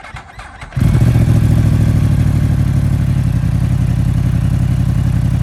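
Sport motorcycle engine: a brief run of starter cranking, then the engine catches under a second in and settles into a loud, steady idle.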